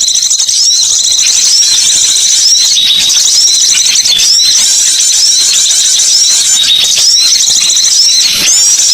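Bird-lure recording of small songbirds: dense, high-pitched chirping and twittering that runs on without a break. Short upswept notes repeat over and over.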